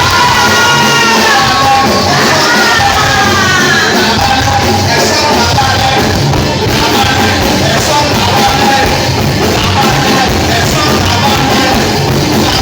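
Loud live church music: a singer's voice over a full band, with some shouting from the congregation in the hall.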